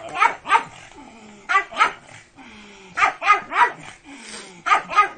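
A pug wearing a plastic cone collar barks in short, sharp clusters of two or three barks, about four clusters in all.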